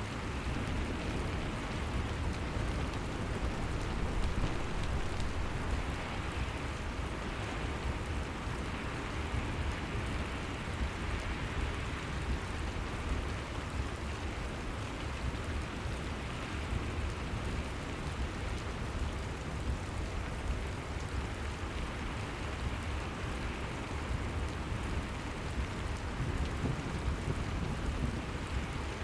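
Steady rain falling as an even hiss that does not let up, with a deep low rumble underneath.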